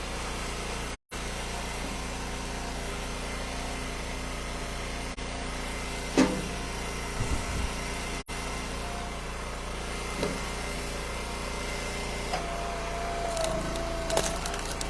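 Gas engine of an Eastonmade Ultra hydraulic wood splitter running steadily while ash rounds are split, with a sharp knock about six seconds in and another about ten seconds in. A higher steady whine joins the engine near the end.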